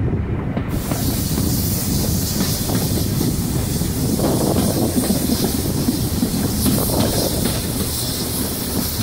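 Railway carriage running along the line, heard at an open carriage window: a steady rumble of wheels on the rails with scattered knocks. A high hiss comes in suddenly about a second in and continues.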